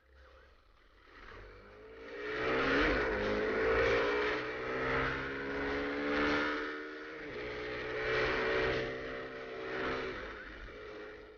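Motorcycle engine running hard and accelerating, its pitch climbing about two seconds in and dropping briefly around the middle before picking up again, the level swelling and easing several times.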